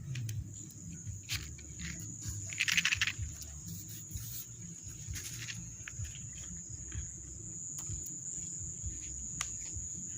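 Steady high-pitched insect buzz, with scattered faint clicks and one short, louder rasping call about three seconds in.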